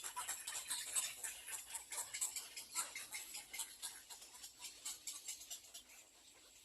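Little egret chicks at the nest giving rapid, dry clicking and ticking, several a second, thinning out after about four seconds.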